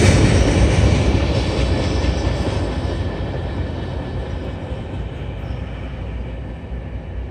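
Norfolk Southern mixed manifest freight train receding after passing the crossing, its rumble fading steadily away.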